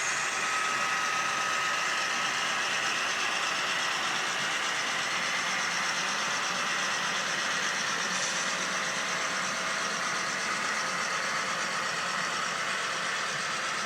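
Model train running along the layout: a steady, unbroken running sound, with motor hum and rolling noise going on without a break.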